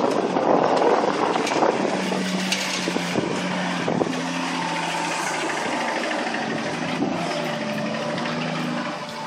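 Off-road vehicle engine running steadily at low revs while crawling a rock obstacle, with scattered short clicks.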